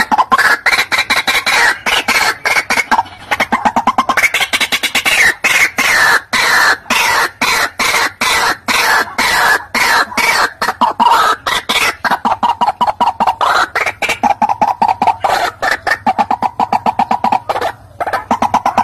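White-breasted waterhen calls played as a lure recording: a fast, unbroken run of short harsh notes, several a second, shifting in pitch and settling lower in the second half.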